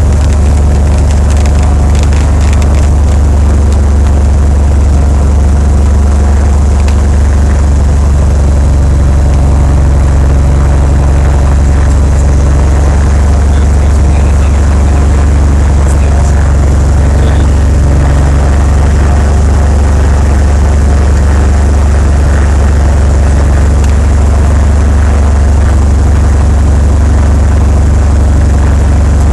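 Cessna 182P's six-cylinder piston engine and propeller running steadily at high power, a loud, even drone with a deep hum, heard inside the cabin.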